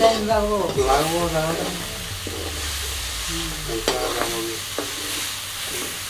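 Chopped chicken, onion and spices sizzling in hot oil in a metal kadai, with a ladle stirring and scraping the pan now and then. A brief wavering, voice-like sound comes in the first second or so.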